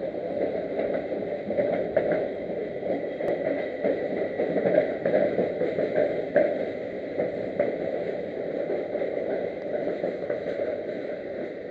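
Regional passenger train arriving at a station, heard from inside the carriage: a steady rolling rumble with scattered clicks from the wheels on the track and a faint steady high tone.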